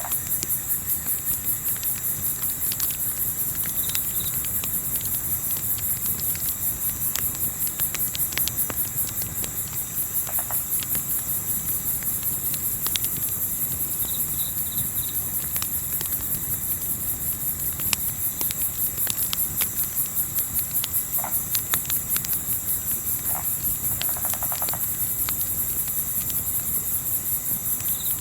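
A chorus of crickets chirping in a fast, steady pulse, with scattered pops and crackles from a campfire and a low, steady rumble underneath.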